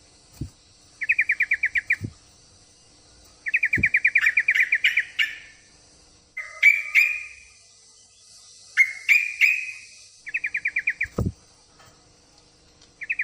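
Yellow-vented bulbul (trucukan) calling: short rapid trills of about ten notes a second, repeated several times, and twice a bubbly chattering phrase in between, the call of a female in heat calling a male. A few short low thuds fall between the calls.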